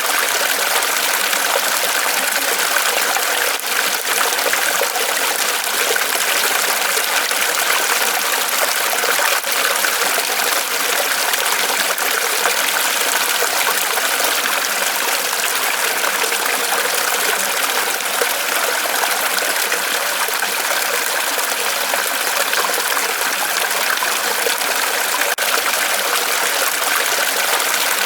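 Small waterfall of water trickling and splashing steadily off a tree trunk, a continuous even rush with no pauses.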